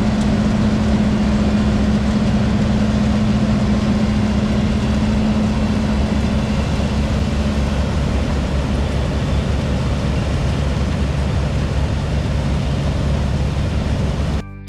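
New Holland CX 5090 combine harvester running steadily with its header attached, a deep engine rumble under a steady hum that fades out about halfway through. The sound cuts off abruptly near the end.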